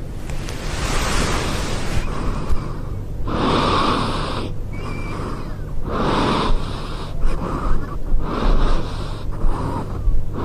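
Loud, breathy gasps coming in bursts, a few every couple of seconds from a few seconds in, over a steady low hum.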